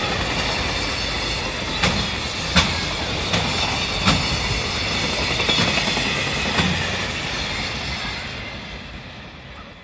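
Freight train's container wagons rolling past at speed: a steady rumble of wheels on rail with an uneven series of sharp clicks as the wheels cross rail joints. The sound fades over the last couple of seconds as the end of the train draws away.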